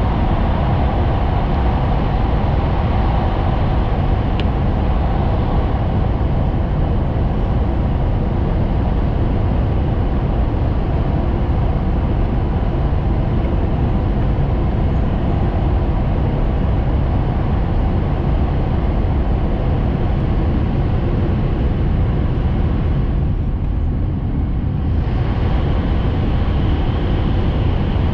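Steady rumble of a Hayabusa Shinkansen train running at speed, heard from inside the passenger cabin. About 23 seconds in, the higher part of the noise dips for a couple of seconds.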